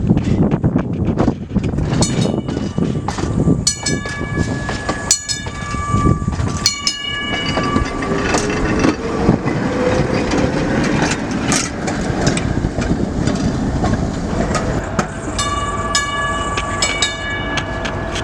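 A train running by with a steady rumble, its locomotive horn sounding a chord in two long blasts, one a few seconds in and another near the end, over repeated sharp bell-like dings.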